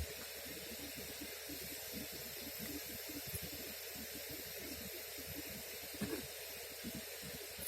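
Steady hiss with a couple of faint knocks.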